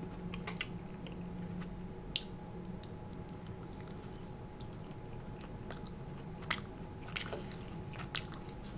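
A person biting into and chewing a breaded, deep-fried mac and cheese bite, with wet mouth sounds and a few sharp clicks over a faint steady hum.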